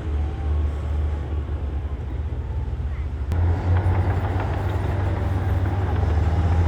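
Heavy earthmoving machinery's diesel engine running with a steady low rumble, growing louder after a click about three seconds in.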